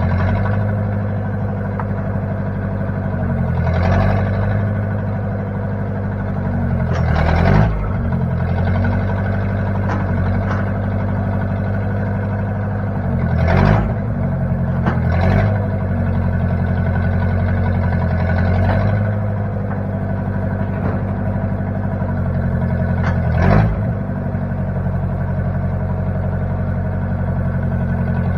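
Engine of a 1960 Case 540 tractor-loader-backhoe running steadily. Its pitch dips and rises briefly a few times, with short louder moments near the middle and again near the end.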